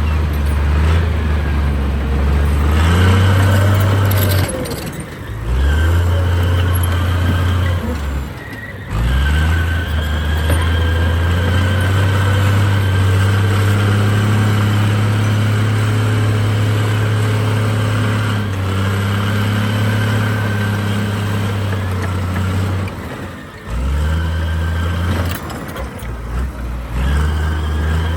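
Heavy diesel earthmoving machinery running under load: a deep engine note that steps up and down in pitch as the throttle and load change, dipping briefly a few times.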